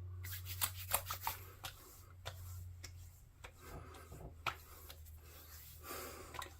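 Hands rubbing aftershave splash into freshly shaved skin, a soft scratchy rubbing with a quick run of light taps or pats in the first second and a half.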